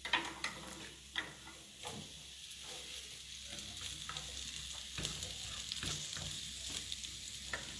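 Halved cherry tomatoes and sliced onion sizzling in oil in a frying pan while a wooden spatula stirs them, with scattered sharp knocks and scrapes of the spatula against the pan over a steady faint sizzle.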